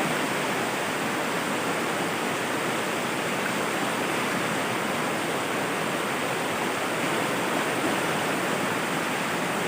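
Rushing water of river rapids: a steady, even rush.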